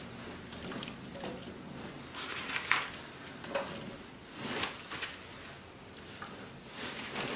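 Pieces of firewood and kindling being handled and stacked inside a wood stove's firebox: a few scattered light knocks and rustles.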